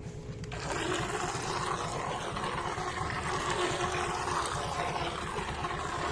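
Remote-control toy boat running in water: its small motor and propeller start about half a second in and run steadily, stirring the water with a fast low rattle.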